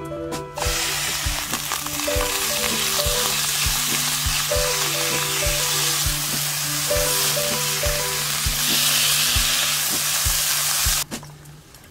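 Pork belly pieces sizzling loudly in hot oil in a frying pan as they are turned with a spatula; the sizzle starts about half a second in, when the meat hits the pan, and cuts off suddenly near the end.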